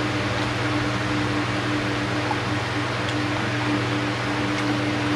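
A motor-driven machine running steadily, giving a constant low hum under an even hiss.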